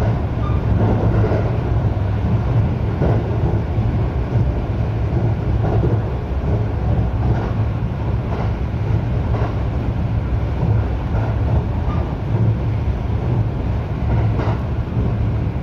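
Running noise of a local electric train heard from on board while under way between stations: a steady low rumble with faint knocks now and then from the wheels on the track.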